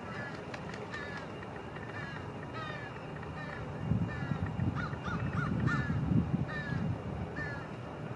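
Wigeon ducklings peeping: short, clear, falling notes repeated about once or twice a second, with a quick run of four about five seconds in. Strong wind rumbles on the microphone, louder from about halfway through.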